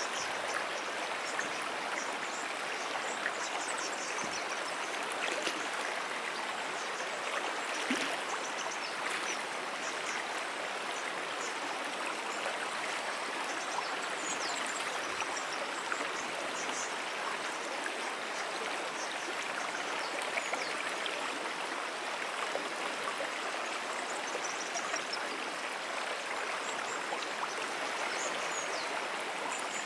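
A brook running steadily, an even rushing of water, with faint high chirps now and then.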